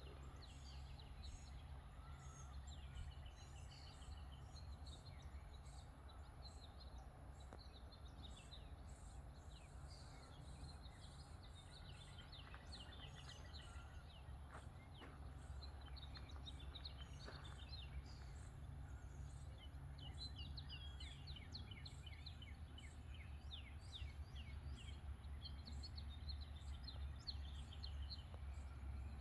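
Small birds chirping and singing over a steady low rumble, with the chirps growing busier in the second half.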